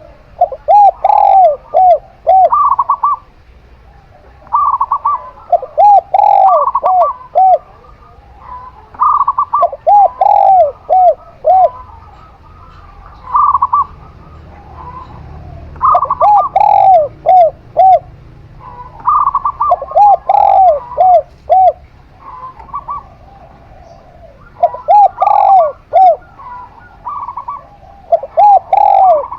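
Zebra dove and spotted dove cooing. Phrases come every few seconds: a lower run of four or five quick arched coos, overlapped by higher, shorter coos in twos and threes.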